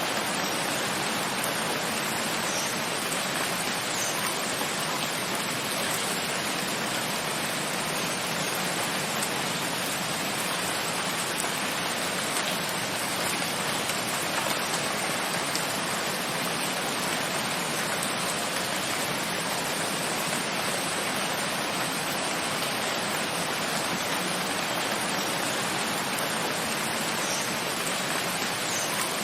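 Steady rain falling, an even, unbroken wash of sound.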